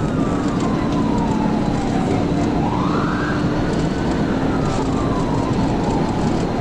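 Police car siren in a slow wail, its pitch rising and falling over a few seconds at a time, over heavy steady road and vehicle noise during a high-speed pursuit.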